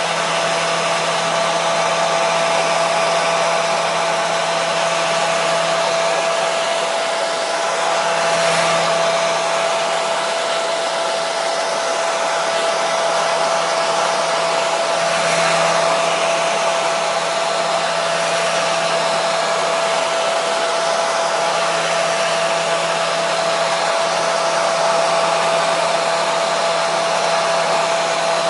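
Hair dryer running steadily: an even rushing of air with a constant motor hum.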